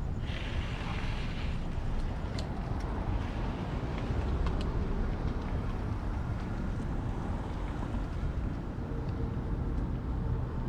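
Steady low rumble of wind and road noise on the camera microphone while riding a bicycle, with a brief hiss lasting about a second near the start and a few light clicks. A faint steady tone joins near the end.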